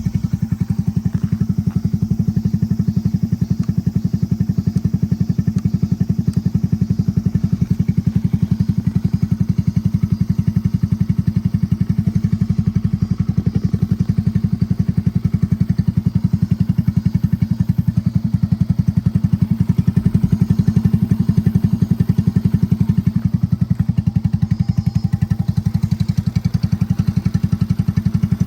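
Honda Jorcub's single-cylinder engine, bored up to 81cc with a Takegawa kit and Kitaco PC20 carburettor, idling steadily through an aftermarket muffler, with an even, rapid exhaust beat.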